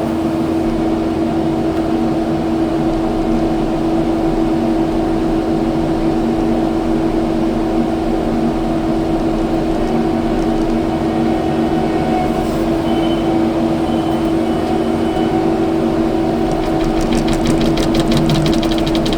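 Kubota skid steer's diesel engine running steadily with a strong hum. A quick run of rattling clicks comes near the end.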